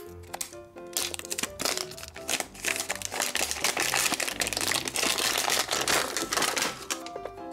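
Wrapping of a LOL Surprise Under Wraps toy capsule crinkling and tearing as it is unwrapped by hand, dense from about a second in until near the end. Light background music plays throughout.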